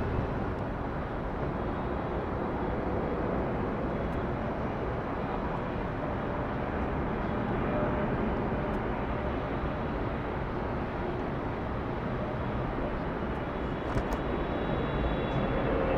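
Jet airliner engines at takeoff power, a steady rushing rumble heavy in the low end.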